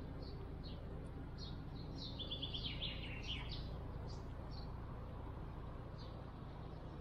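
Small songbirds chirping with short high calls, and a quick run of repeated notes that falls in pitch about two to three seconds in, over a steady low background hum.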